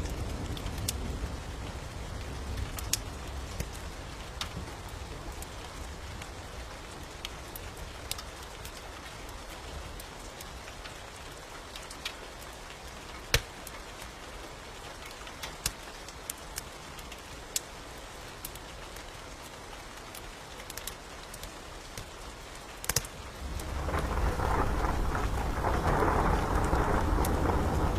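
Steady rain mixed with sharp, scattered crackles and pops of a wood fire. About 24 seconds in, a low rumble of thunder rolls in and the sound grows louder.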